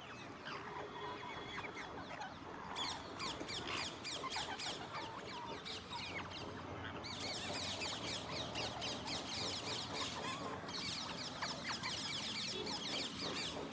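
Alexandrine parakeets chattering in a run of rapid, high-pitched squeaky calls, which become denser and louder from about three seconds in.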